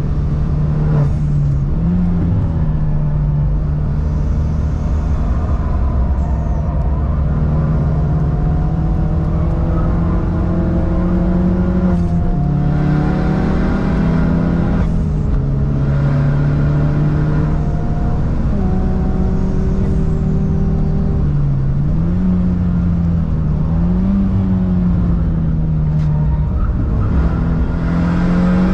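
A car engine held at high revs for a whole track lap stretch. Its note climbs steadily and falls back sharply several times, as under hard acceleration with gear changes, most plainly twice around the middle.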